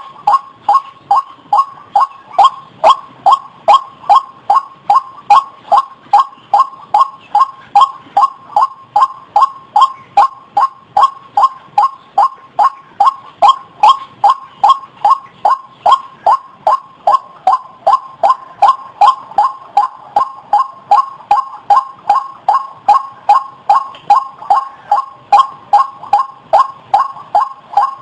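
White-breasted waterhen (ruak-ruak) giving its repeated call, one note over and over, about two to three a second, at an even pace.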